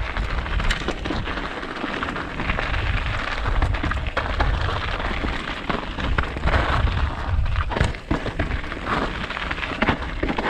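Wind buffeting the camera's microphone with a heavy rumble, over the crackle and rattle of a mountain bike rolling on a rough, stony trail.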